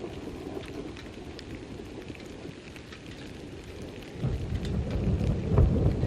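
Distant thunder rumbling, swelling into a louder low rumble from about four seconds in, with scattered raindrops ticking over it.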